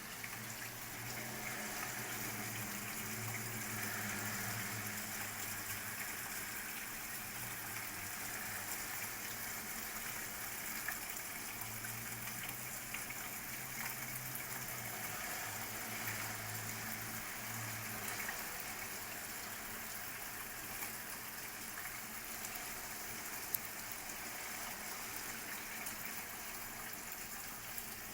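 Steady rain from a thunderstorm ambience track, with a low rumble during the first few seconds and again around the middle, and a few isolated clicks.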